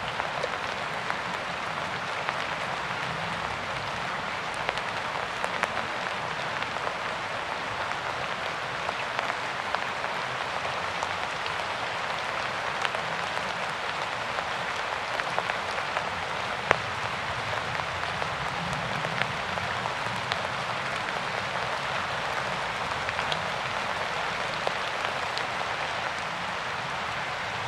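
Steady rain falling, an even hiss with many scattered sharp drop ticks throughout.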